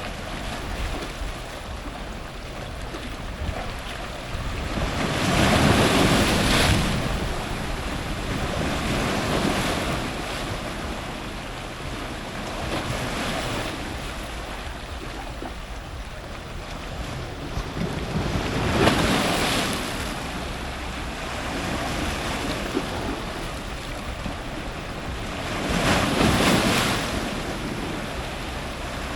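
Strong ocean surf close to the waterline: a steady wash of water, with three big waves breaking, about a fifth of the way in, about two-thirds of the way in, and near the end.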